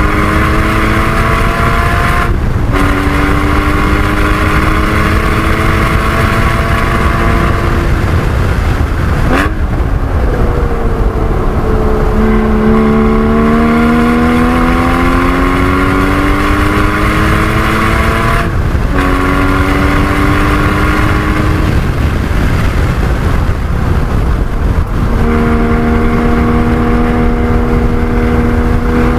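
Porsche 981 Cayman GT4's 3.8-litre flat-six at full throttle on track. Its pitch climbs under acceleration, with brief breaks at gear changes about two seconds in and again near the two-thirds mark. A sharp blip about a third of the way through marks a downshift under braking. Near the end the engine holds a steady pitch, all over constant road and wind noise.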